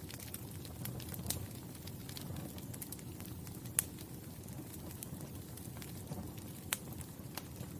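Wood fire burning: a low steady rumble with scattered sharp crackles and pops, two of them louder, about four seconds and near seven seconds in.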